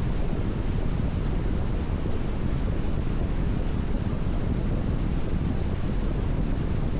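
Steady road noise of a car driving on a rain-wet expressway: tyres hissing on the wet surface over a low rumble.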